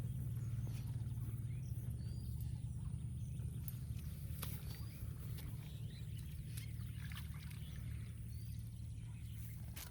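Outdoor ambience: a steady low hum throughout, with faint short bird chirps and a few light clicks scattered over it.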